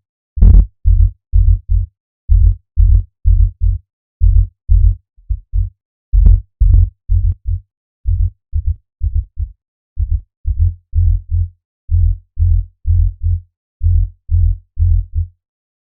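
Electronic synth bass part playing solo: short, loud low notes in a syncopated, repeating rhythm, a couple of them with a brighter, clicky attack. It stops shortly before the end.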